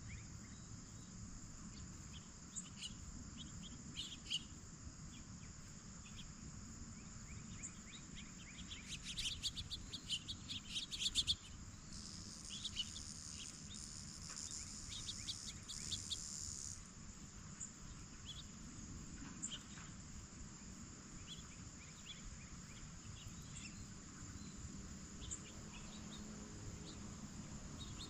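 Steady high-pitched chorus of insects, crickets among them, which grows louder for a few seconds around the middle. Scattered bird chirps run over it, with a quick run of sharp clicks and chirps, the loudest sounds, about nine to eleven seconds in.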